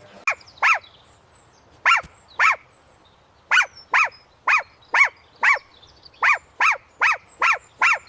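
A puppy barking in a series of short, high yips, each dropping in pitch, at first spaced out and then coming about twice a second.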